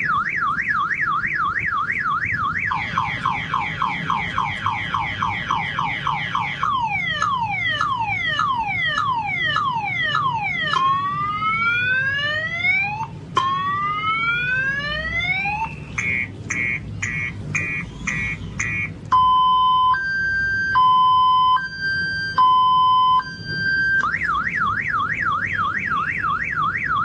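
Multi-tone electronic car alarm siren cycling through its patterns: a fast warble, then rapid falling sweeps, slower falling sweeps, two long rising whoops, a string of quick chirps and an alternating high-low two-tone, before the warble starts again near the end.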